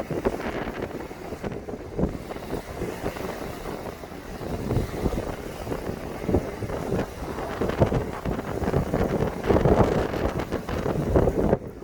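Strong wind buffeting the microphone in uneven gusts, a rumbling rush that swells and drops every second or so and is loudest near the end.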